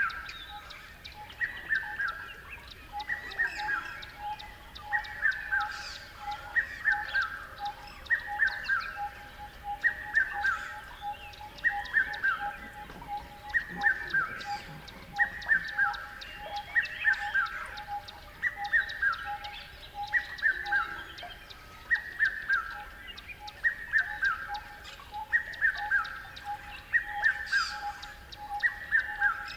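Birds calling in forest: a short falling call repeated about once a second, over a steady, rapid pulsing note underneath.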